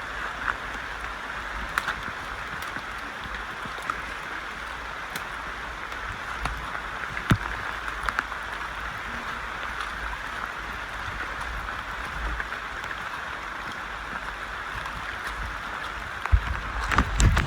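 Steady rainforest ambience: a continuous hiss concentrated in the mid range, with scattered small clicks. A cluster of louder knocks and low thumps comes near the end.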